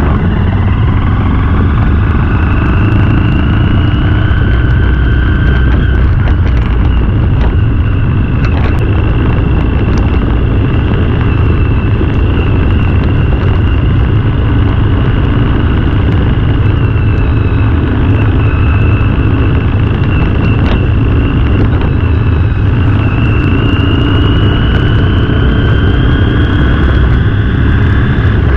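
Motorcycle being ridden at a steady speed: its engine runs evenly under loud wind and road noise, and a high whine rises slightly about three-quarters of the way through.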